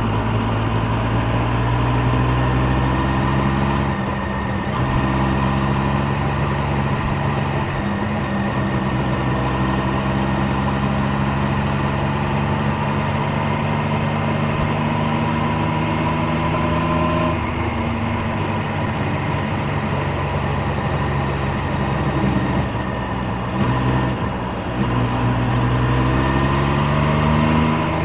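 Triumph Street Triple 765 Moto2 Edition's three-cylinder engine and exhaust under way, the note climbing as it pulls through the gears with brief dips at the shifts: once early, once about two-thirds through, and a longer break near the end before it rises again.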